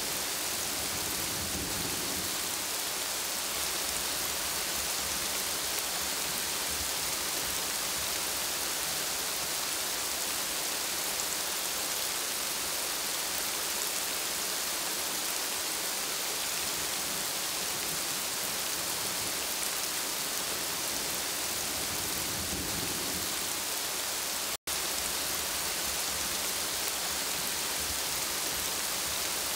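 Steady rain pattering on broad plant leaves, an even hiss with a soft low rumble swelling twice. The sound cuts out for an instant a few seconds before the end.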